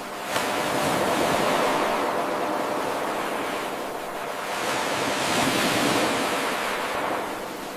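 Ocean surf: waves washing in and drawing back in two slow swells of steady noise. Just under half a second in, the level jumps sharply where the 8-second wave recording loops back to its start.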